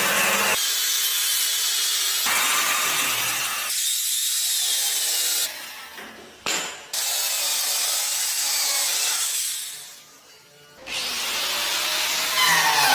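Power tools working wood: a noisy hiss of cutting or sanding in a run of short pieces that change abruptly every second or two, dropping away briefly twice.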